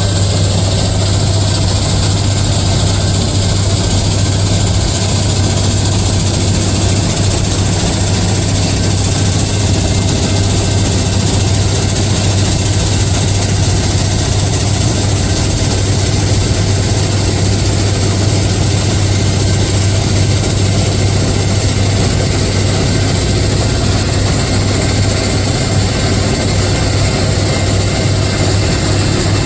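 Heavy engine running steadily, a constant low hum with an even layer of noise over it.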